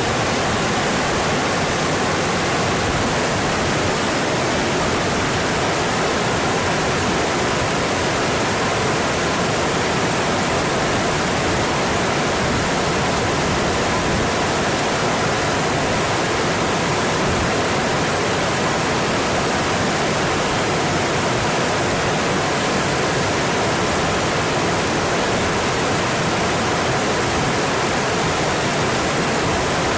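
Mountain stream flowing, a steady, unchanging rush of water.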